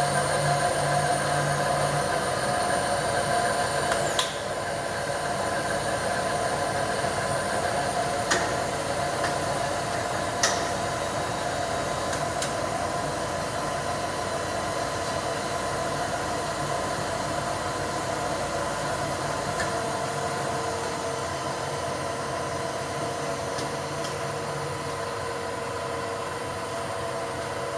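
Two rebuilt Bridgeport turret milling machines running together, spindle heads and table power feeds giving a steady whine, quiet and smooth. Sharp clicks come about 4, 8 and 10 seconds in, the sound dropping a little after the first, and the tones shift again around 20 seconds.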